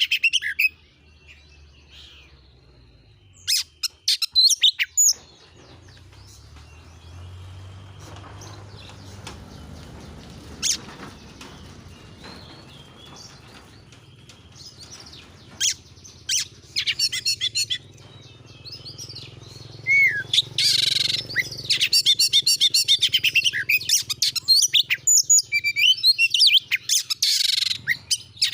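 Oriental magpie-robin (kacer) singing and chattering: a few short bursts of high chirps early on, a quieter stretch of scattered notes over a low hum, then fast, dense chirping through the last third.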